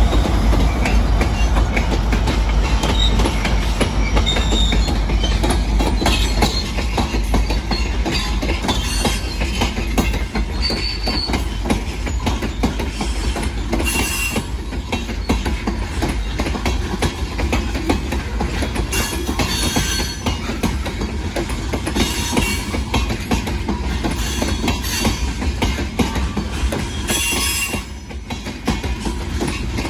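Freight train passing close by. The low rumble of the last EMD SD60M diesel locomotives eases over the first few seconds, then a long string of open-top hopper cars rolls past with steady wheel rumble and clatter. Brief high wheel squeals come a few times: about halfway through, around two-thirds of the way, and near the end.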